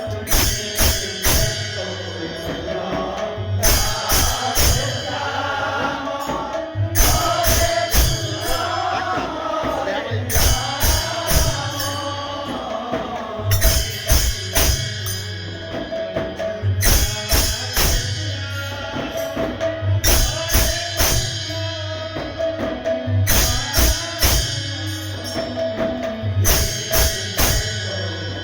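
Kirtan devotional music: voices chanting over a steady rhythm of drums and jingling metal percussion, with a held note underneath.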